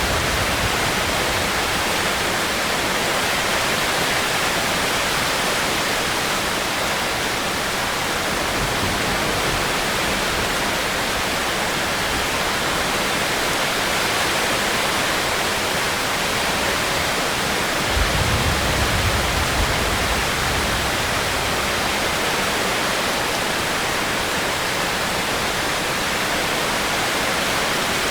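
Steady heavy rain, an even hiss with no break. About two-thirds of the way through, a brief low rumble swells under it.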